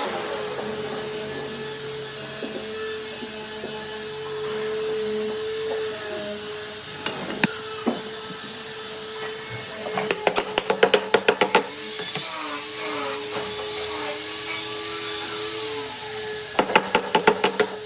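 An electric motor, likely a power tool, running steadily with a constant hum. Two bursts of rapid clicking or rattling come through, about ten seconds in and again near the end.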